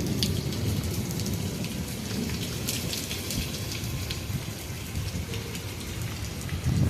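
Heavy rain pouring down, with many sharp ticks of drops striking close by over a steady wash of noise.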